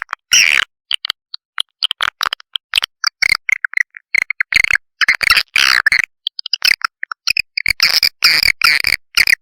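Swiftlet lure-call recording: rapid chirping twitters and chick calls in short, choppy bursts, broken by abrupt silent gaps, played to attract swiftlets to a nesting house.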